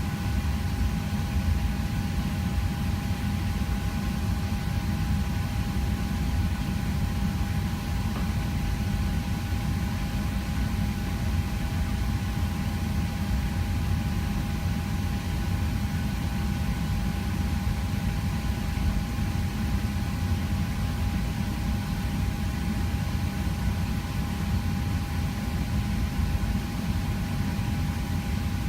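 Steady cabin noise inside a Boeing 737 airliner on the ground: a low rumble with a constant high whine over it.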